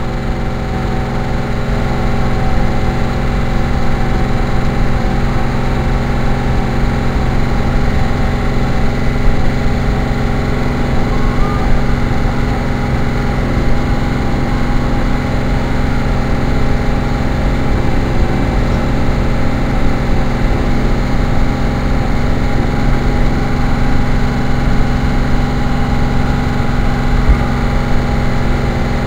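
Car driving at a steady speed: a constant engine drone with road and wind noise, loud on the microphone.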